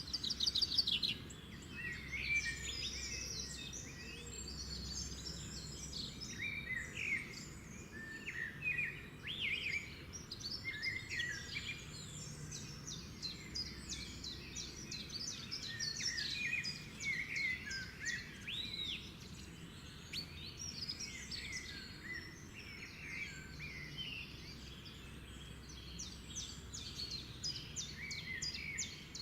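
A dense chorus of many birds singing and chirping at once, with short overlapping calls and trills throughout, over a steady low background rumble.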